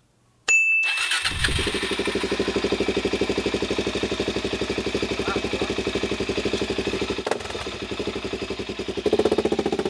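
Motorcycle being started: a click and a brief beep, then the engine catches about a second in and idles with a steady, even beat, getting louder near the end.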